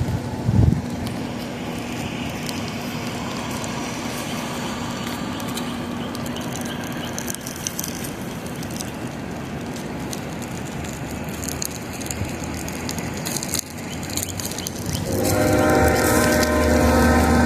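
A steady rumble with scattered clicks and crackles, then about fifteen seconds in a loud, sustained horn-like blast of several steady pitches starts and holds.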